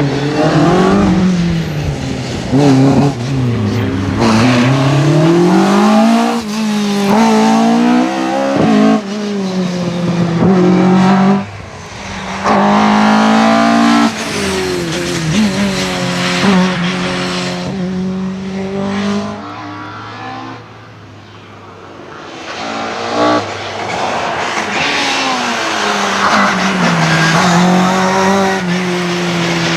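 Rally cars driven flat out on a stage, engines revving hard and dropping back over and over through gear changes and corners. Level changes abruptly a few times, and about two-thirds in one car fades before the next comes up loud.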